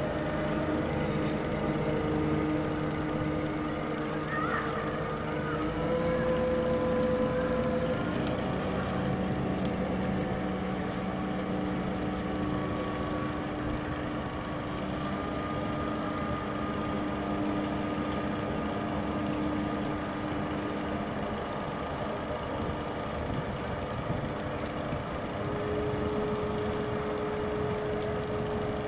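Steady engine drone with several humming tones that shift to new pitches a few times.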